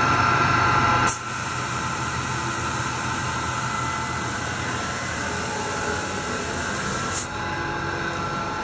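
Ramco 37-inch wet wide belt sander running with a steady machine hum. About a second in the sound changes abruptly and a high hiss joins it, lasting until about seven seconds in, while a workpiece is passed through.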